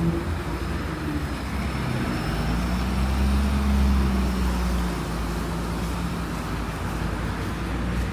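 Road traffic: a motor vehicle's engine hum swells as it passes, loudest around three to four seconds in, over a steady wash of traffic noise.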